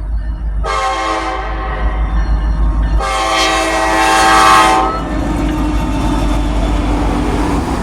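Norfolk Southern diesel freight locomotive's air horn sounding a short chord blast, then a long one about three seconds in, over a steady low rumble from the passing train.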